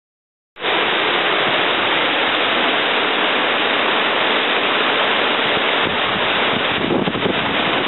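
Steady rushing of a waterfall, cutting in abruptly about half a second in.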